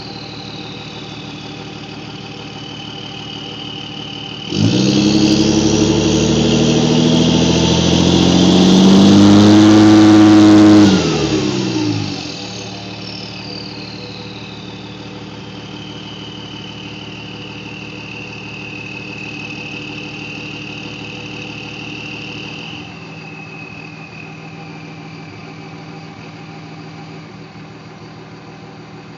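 Cummins 5.9-litre turbo-diesel with an Industrial Injection Super Phatshaft 62/71/14 turbo, revved hard for about seven seconds, the turbo's high whistle climbing with the engine. It then drops back to idle, and the whistle winds down and keeps sounding over the idle, heard through a large Donaldson muffler.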